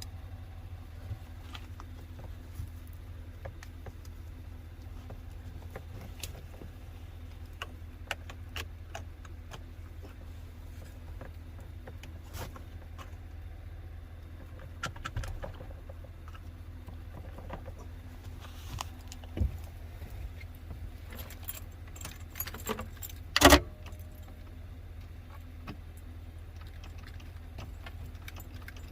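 Scattered light metallic clicks and clinks over a steady low hum, with one loud, sharp click about three-quarters of the way through.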